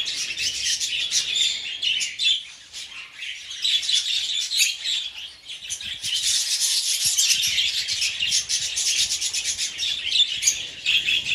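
A flock of budgerigars chattering, many overlapping short chirps at once, growing busier about halfway through.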